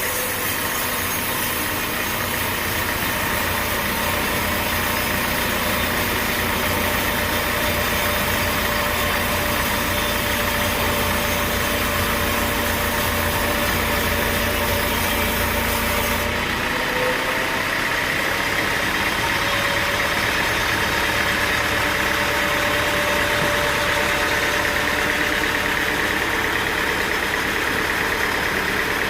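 Sawmill engine running steadily with machine noise and no cutting heard; the sound changes abruptly about sixteen seconds in.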